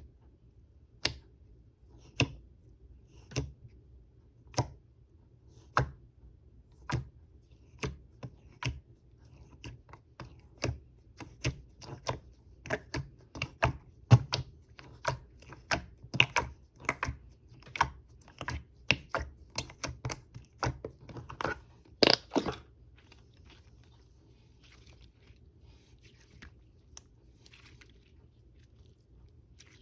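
Cream-textured slime being pressed and handled by hand, giving sharp pops at about one a second. The pops quicken to about two a second, the loudest come a little over two-thirds of the way in, and then they fade to faint crackles.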